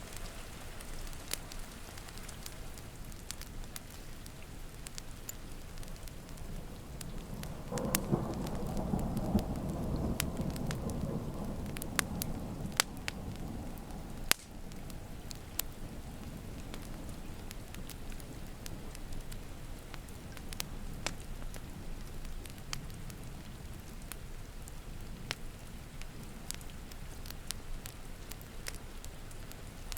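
Wood fire crackling with scattered sharp pops over steady rain. About eight seconds in a low roll of thunder swells and fades away over several seconds.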